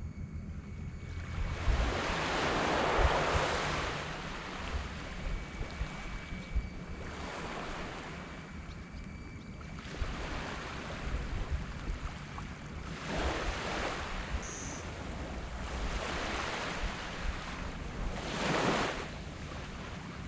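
Small tropical waves breaking and washing up a sand beach in about six surges, the biggest about two seconds in, over a steady low rumble.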